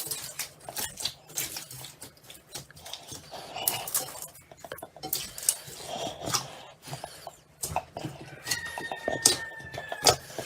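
Slime being handled: squeezed and poked, giving many irregular clicks and pops.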